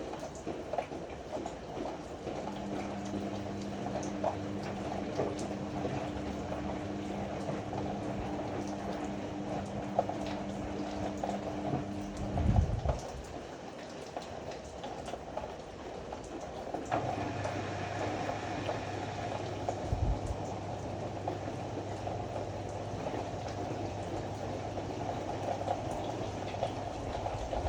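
Ariston AML125 washer-dryer running, its drum turning with a steady swishing noise under a motor hum. The motor hum stops with a thump about halfway through. After a few quieter seconds the motor starts again with a lower steady hum as the drum turns once more.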